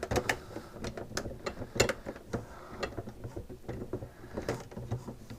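Long screws being undone from a SodaStream's plastic housing with a screwdriver: a run of irregular clicks and light knocks, with the tool ticking as it turns.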